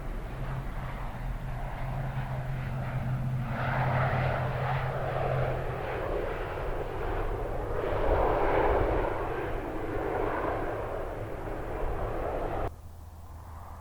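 Airbus A320neo jet engines running, a loud rushing noise that swells twice. It cuts off suddenly near the end, leaving a quieter steady rumble.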